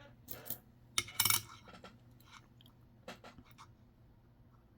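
Nickels clinking and clicking together as they are handled and sorted: a few light metallic clinks, the loudest cluster about a second in and another group around three seconds.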